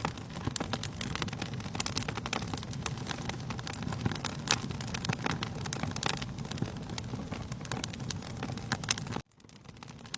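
Wood fire in a fireplace crackling, with many sharp pops over a low rumble of flames. The sound cuts out suddenly for about a second near the end.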